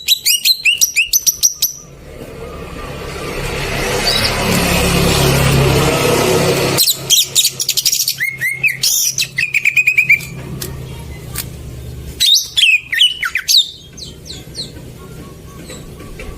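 Green leafbird (cucak ijo) calling in quick series of sharp chirps and slurred whistled notes, in three bursts, used as a lure to trigger a silent caged bird into song. Between the first two bursts a loud rushing noise swells up and fades away.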